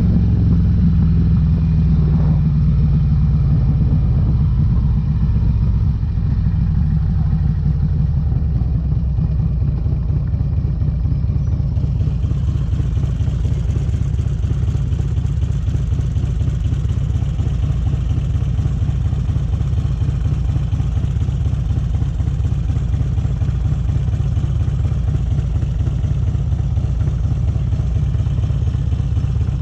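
Harley-Davidson Electra Glide's V-twin engine running through Vance & Hines exhaust pipes, a steady low rumble. Its pitch eases down over the first few seconds, then holds steady.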